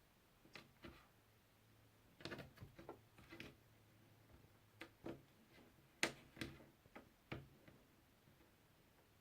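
Jigsaw puzzle pieces being handled and fitted: soft, scattered clicks and taps, a small run of them about two to three seconds in and the sharpest click about six seconds in.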